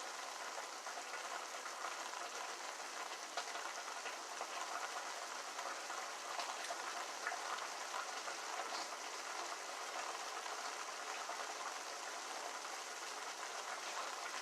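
Squash cooking in a pan on the stove: a steady sizzling hiss with many small crackles.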